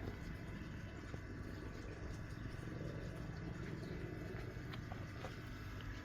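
A machine running steadily with a low hum and a few faint ticks.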